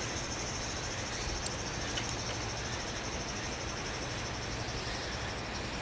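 A steady chorus of insects chirring, a high, finely pulsing buzz that holds unchanged throughout, with a faint tick or two.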